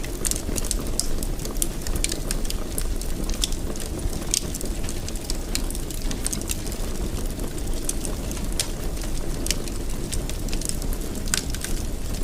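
Fire burning in a fireplace: a steady low-pitched rush of flames under frequent, irregular sharp crackles.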